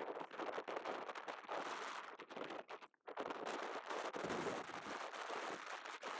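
Strong mountaintop wind buffeting the microphone in rough, crackling gusts, with a brief lull about three seconds in.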